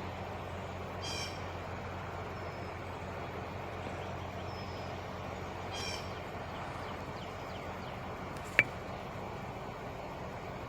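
Two harsh crow caws, about a second in and again near six seconds, over a steady low hum. A single sharp click comes a little past eight seconds.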